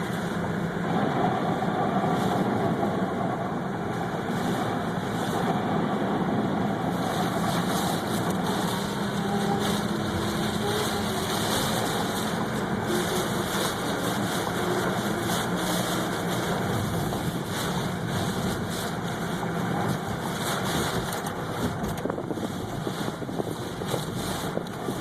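A car's engine and road noise heard from inside the cabin, steady throughout.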